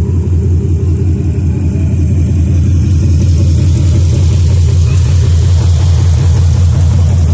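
Swapped-in 392 Hemi (6.4-litre) V8 idling steadily with an even low pulse.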